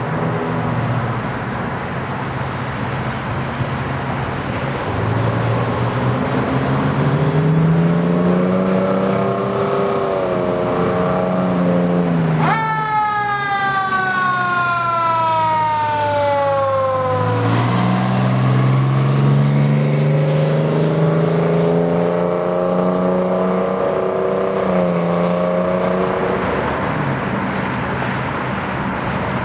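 Fire engine's old two-stroke Detroit Diesel pulling away hard, its pitch climbing and stepping down at gear changes. About midway a siren whoops up sharply and then winds down over about five seconds, after which the diesel keeps accelerating through the gears.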